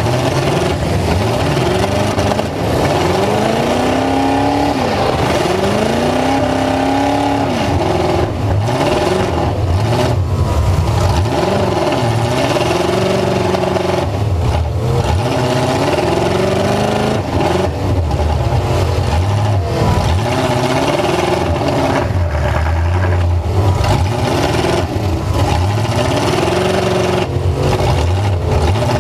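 Full-size pickup truck engine, loud, revved up and down again and again, its pitch climbing and falling in repeated swells.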